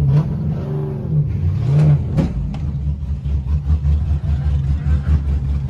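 Car engine running, its pitch dipping and rising over the first two seconds, then settling into a low, even, pulsing drone.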